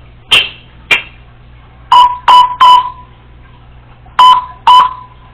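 African grey parrot making two sharp clicks, then a quick run of three beeps and, about two seconds later, two more. Each beep starts with a click and holds a steady tone, in her imitation of a household electronic device such as a phone or a smoke detector.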